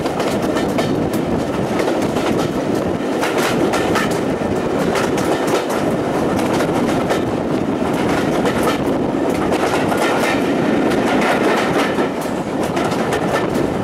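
Steam-hauled passenger carriages running along the line, with a steady rumble and the wheels clattering over the rail joints, heard from an open carriage window.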